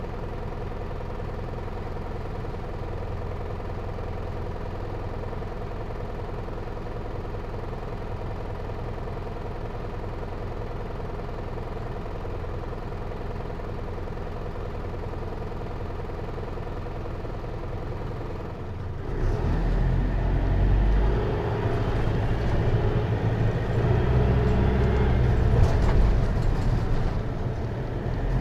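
Hino Liesse microbus's J05C diesel engine idling steadily. About two-thirds of the way in it revs up and stays louder and uneven as the bus pulls away and drives on.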